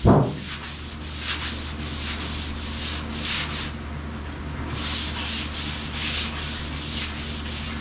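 Sandpaper rubbed by hand over a painted car body panel in rapid back-and-forth strokes, with a short pause near the middle and a thump at the very start. The paint was sprayed over dirt, and the sanding is bringing that grit out.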